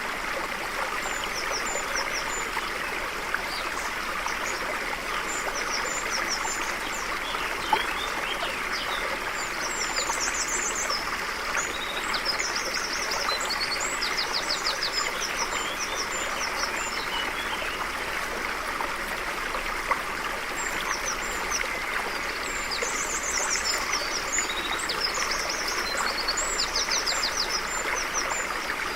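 A stream flowing steadily, with small birds chirping and calling over it in short high notes and quick rattling trills, busiest in two spells midway and near the end.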